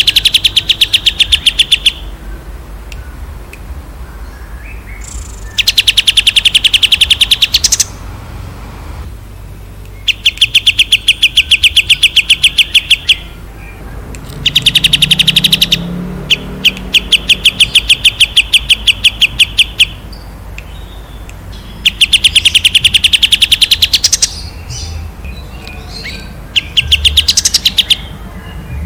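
Songbird singing loud rapid trills: bursts of two to three seconds of fast, evenly repeated high notes, about six times with short pauses between, over a faint steady low hum.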